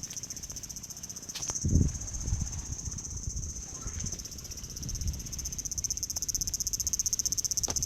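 Insects making a steady, high-pitched, rapidly pulsing trill. A low thump sounds a little under two seconds in, with scattered low rumbles around it.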